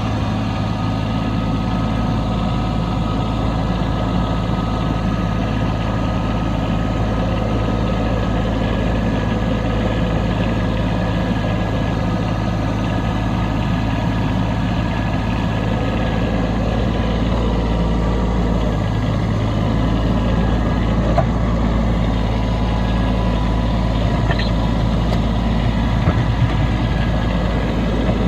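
Kubota B2601 compact tractor's three-cylinder diesel engine running steadily, its low hum shifting slightly about two-thirds of the way through.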